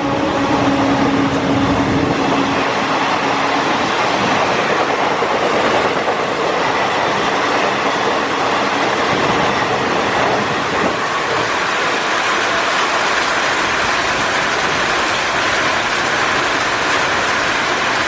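A train horn dies away over the first few seconds, and then comes the steady rushing noise of a train passing in heavy rain.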